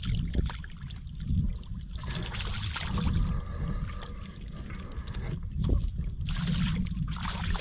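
Water sloshing and splashing in shallow floodwater, with an uneven low rumble and scattered knocks.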